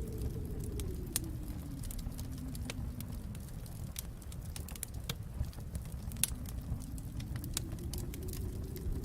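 Wood fire crackling in a fireplace, with scattered sharp pops and snaps over a low rumble that sinks for a few seconds midway and then swells back.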